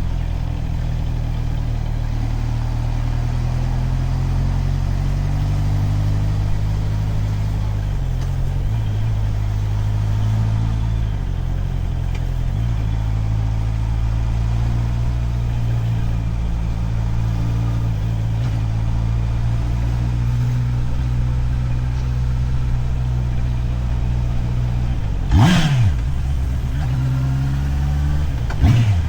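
Motorcycle engine running at low, fairly steady revs while riding, its pitch shifting a little. Two brief, louder sharp sounds break in near the end.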